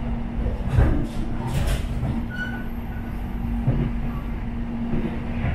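Airport rail-link train running, heard from inside the carriage: a steady low rumble with a constant hum and a few short knocks from the running gear.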